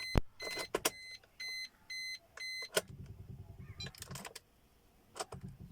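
Swift Dzire's dashboard warning chime beeping about twice a second with the ignition switched on, with sharp clicks among the beeps. Then comes a brief, low, rapid chatter as the starter fails to crank, which the owner puts down to a battery problem from corroded terminals.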